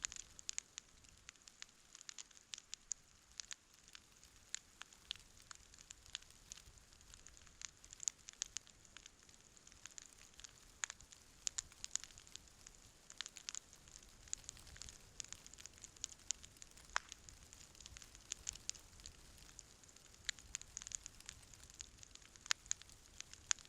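Wood campfire crackling: irregular sharp snaps and pops over a faint hiss, with a couple of louder pops in the second half.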